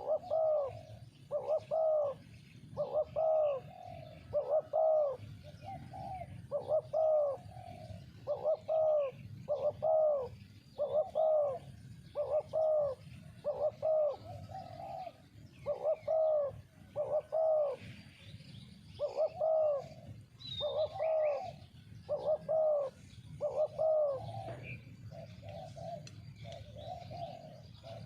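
Spotted doves cooing: a long run of short, hollow coo notes, about one a second, grouped in repeated phrases.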